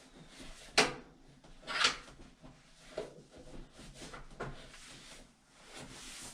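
A handful of sharp knocks and bumps from parts being handled, the loudest just under a second and about two seconds in, with fainter knocks and rustling between.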